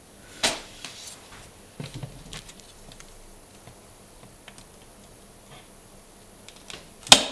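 Light scattered clicks and taps of a glass cutter and a sheet of clear glass being handled on a workbench, ending with one sharp loud click.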